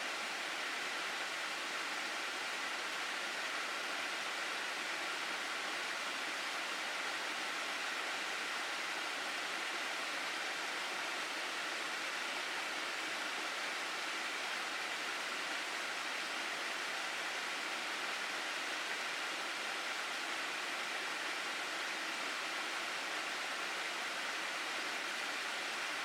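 Steady rush of flowing water in a gorge stream, an even hiss with no breaks.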